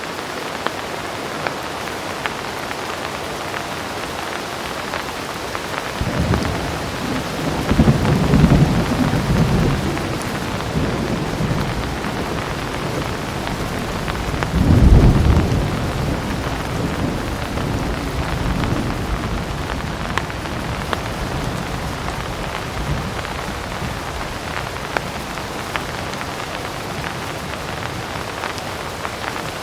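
Heavy rain falling steadily, with low rolls of thunder. One rumble builds about a fifth of the way in and swells for several seconds. A second, sharper peal comes about halfway through and then trails off.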